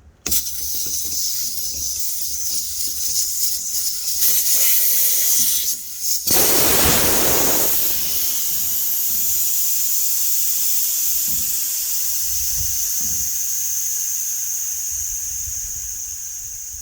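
Compressed air hissing out of a truck's air-suspension helper bags through the open valve as they are let down. A steady high hiss starts almost at once, swells to a louder, fuller rush about six seconds in, then runs on and slowly fades as the pressure drops.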